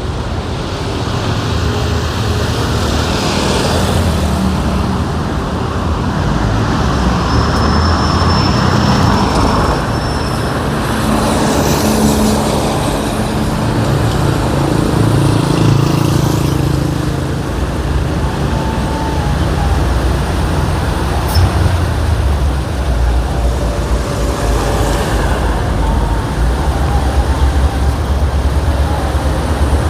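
City street traffic: cars and buses running and passing in a steady din of engines and tyres. A thin high tone sounds for a couple of seconds about a quarter of the way in.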